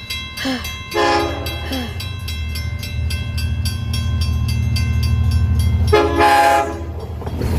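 Long Island Rail Road train approaching a grade crossing: the horn sounds about a second in and again, longer, about six seconds in, over a low rumble that grows as the train nears. The crossing bell rings in quick, even strokes throughout.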